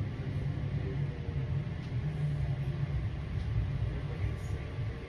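Low rumble of a PATCO rapid-transit car heard from inside as the train slows, with a faint falling motor whine; the rumble eases off toward the end.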